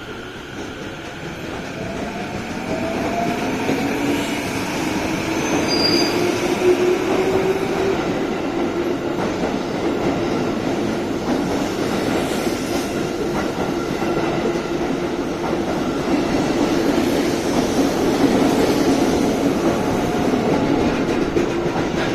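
Tokyo Metro 15000 series electric train accelerating, its traction motors whining upward in pitch over the first several seconds and then holding a steady tone. Wheel-on-rail running noise grows louder for the first few seconds, then stays steady and loud.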